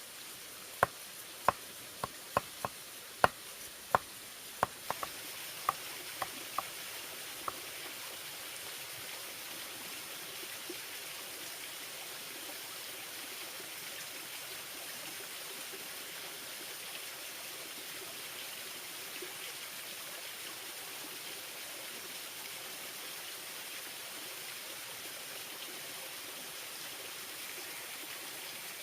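A run of about fifteen sharp knocks over the first eight seconds, then a steady rush of flowing stream water.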